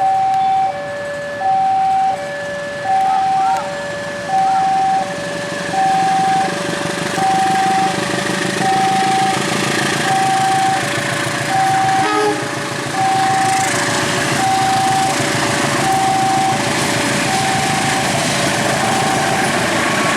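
Railway level-crossing alarm sounding two alternating electronic tones, high then low, about one cycle every second and a half. A train's passing noise builds over it from about a third of the way in and stays loud, with a single knock partway through.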